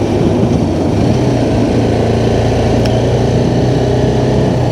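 BMW G310R single-cylinder motorcycle engine running at steady revs while riding.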